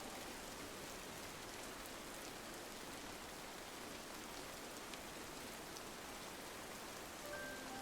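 Steady rain on a window: an even, soft hiss with a few faint drop ticks. Soft musical notes come in near the end.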